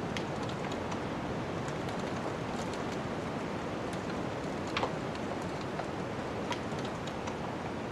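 Wood fire crackling, with scattered sharp pops, the loudest a little under five seconds in, over a steady rushing noise of snowstorm wind.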